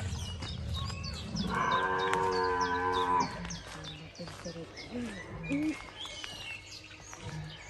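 A single drawn-out moo from a large animal, lasting about a second and a half and starting about a second and a half in, while small birds chirp throughout.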